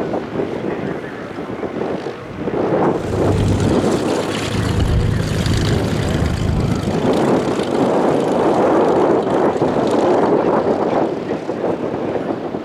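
A light propeller airplane's engine running as it passes, loudest from about three to seven seconds in, with gusty wind buffeting the microphone.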